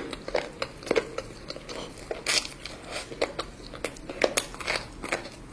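Close-miked chewing and biting of spicy chicken curry, with many short, irregular wet clicks and smacks several times a second.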